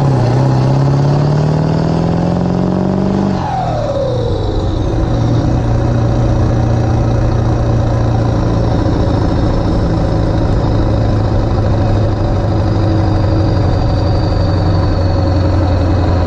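1996 Ford F-350's 7.3 Powerstroke V8 turbodiesel, running through exhaust stacks, pulling under acceleration with a rising engine note. It drops in pitch about three and a half seconds in as it shifts up, then runs steadily at cruise.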